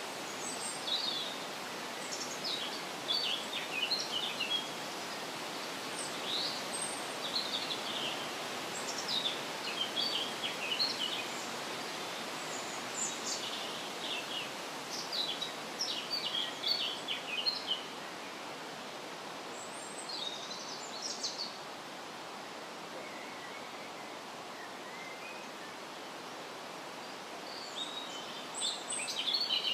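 Songbirds chirping and trilling over a steady outdoor hiss. The birdsong is busy at first, thins out about two-thirds of the way through, and picks up again near the end.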